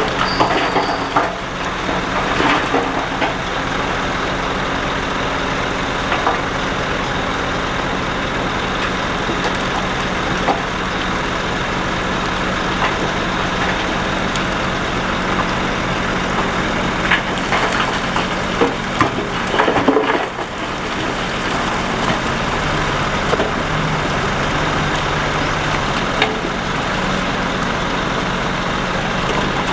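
Shantui DH17C2 bulldozer's diesel engine running steadily under load while its blade pushes rock and dirt, with crunching and cracking of stones, loudest just before two-thirds of the way through. The engine note shifts a little higher soon after.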